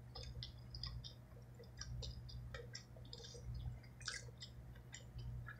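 Faint close-up chewing of a mouthful of food, with scattered small wet mouth clicks and smacks, over a low steady hum.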